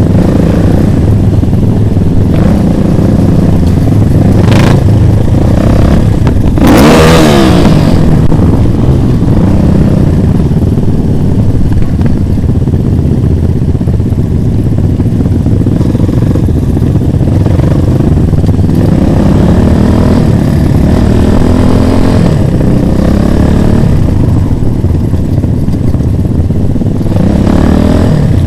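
Motorcycle engines running during a ride, loud and continuous. About seven seconds in, an engine rises and falls sharply in pitch, and there are shorter swells in pitch later on.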